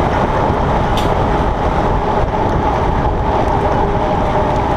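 Wind rushing over the camera microphone while a Surly Krampus bike rolls fast downhill, with a steady hum from its wide tyres on the road.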